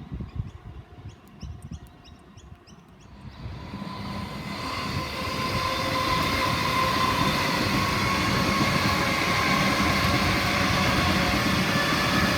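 Electric suburban train approaching along the line. It grows louder over a few seconds into a steady rumble of wheels on rail, with a steady whine over it.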